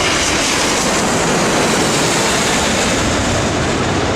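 Steady rushing noise of a large jet airliner's engines passing close by.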